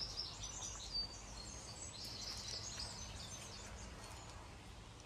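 Faint birdsong, small scattered chirps, over a low steady outdoor background hum.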